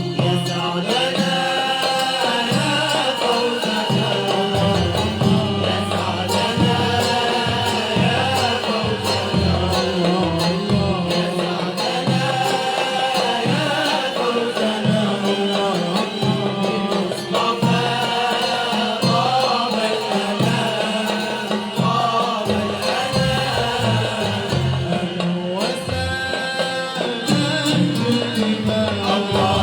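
A malouf ensemble performing: a melody that bends up and down in pitch over a steady hand-drum beat.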